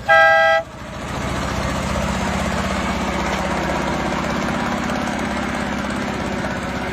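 A truck's horn gives a short two-tone honk that stops about half a second in, then the engine idles steadily.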